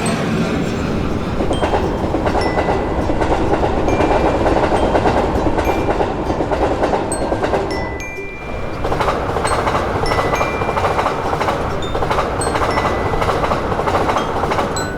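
A train passing with a loud, dense rumble and wheel clatter, which dips briefly a little past halfway before picking up again. Short high dings are scattered over it.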